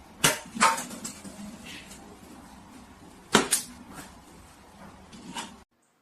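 A few sharp knocks or bangs, two near the start and two more about halfway through, with a fainter one later, over low room noise. The sound cuts off suddenly shortly before the end.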